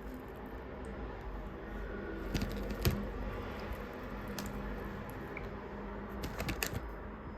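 Kitchen cooking sounds: a few light clicks and taps, in small clusters, over a steady low hiss.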